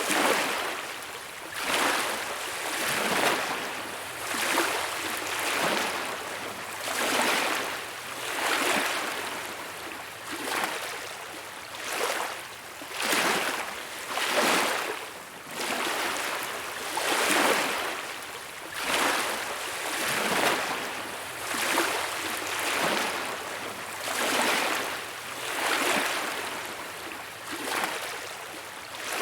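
Small beach waves breaking and washing ashore, the surf noise swelling and fading about every second and a half.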